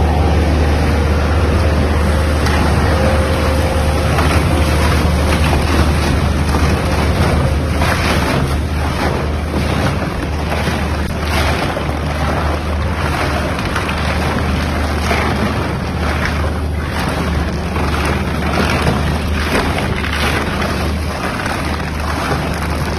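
Tyre shredder for large mining truck tyres running under load: a steady low machine hum, with irregular bursts of grinding and tearing from about eight seconds in as the tyre is cut into shreds.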